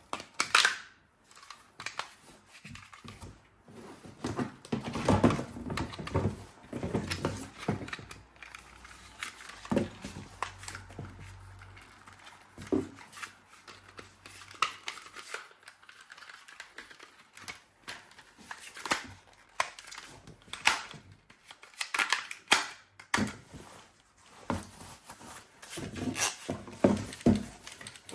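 Unboxing handling noise: irregular clicks and clacks of objects being handled, with rustling and tearing of packaging between them.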